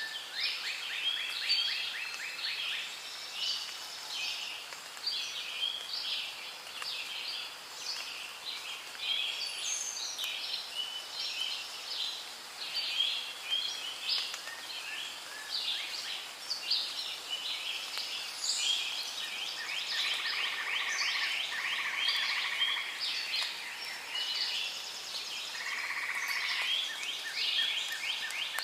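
Rainforest ambience: a dense, unbroken chorus of overlapping chirping and trilling animal calls, with a lower pulsing trill joining in the last third.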